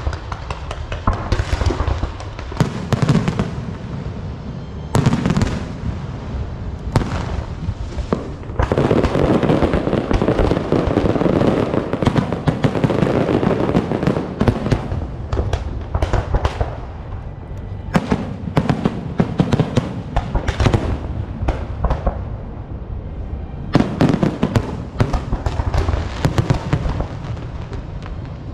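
Fireworks going off: repeated sharp bangs and crackling, thickening into a dense barrage from about nine to fifteen seconds in.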